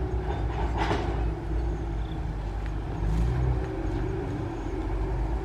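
An engine running steadily with a low rumble, with a brief rasp about a second in.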